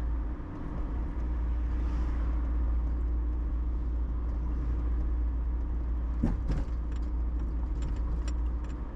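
Steady low rumble of a car's engine and tyres heard from inside the cabin while driving. A brief knock sounds about six seconds in.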